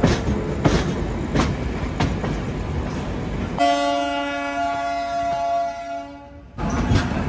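Indian passenger train running at speed: wheels clattering with sharp clacks over the rail joints about every two-thirds of a second. Midway a train horn sounds as one steady call of about two and a half seconds, then the clatter returns.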